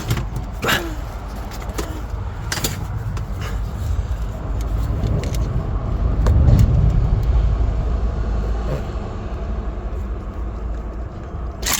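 A few short, sharp clicks of tools and parts being handled as a diesel injector is wiggled in its bore, over a steady low rumble that swells for a couple of seconds in the middle.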